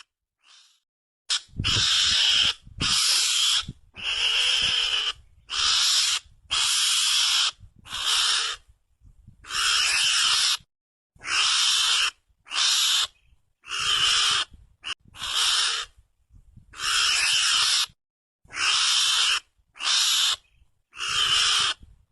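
Mongoose calls played as a hunting lure: a long run of harsh, hiss-like bursts, each half a second to a second long, repeated about once a second with short silent gaps.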